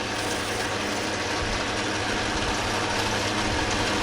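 Metal lathe running steadily while turning a round metal slug.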